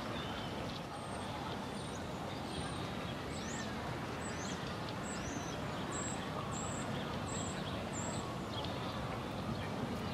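A small songbird repeating short, very high, thin chirps, about ten of them starting about a second in and stopping near the end, over a steady low background rumble.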